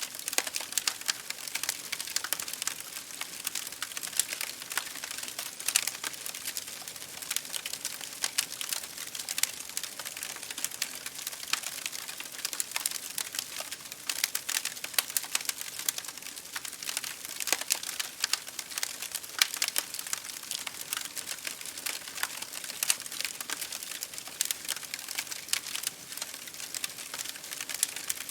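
Wood campfire crackling steadily, a dense run of small snaps with scattered louder pops.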